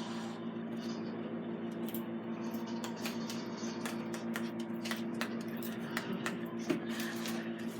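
A person clicking their teeth at a cat: quick, irregular sharp clicks over a steady hum, with one louder knock near the end.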